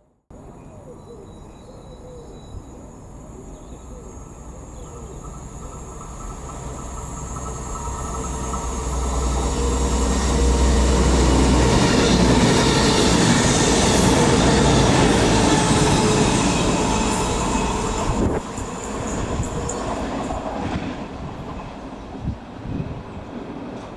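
A train running past on the line, growing steadily louder as it approaches, loudest a little past halfway through, then dying away; the sound drops off abruptly about three-quarters of the way through.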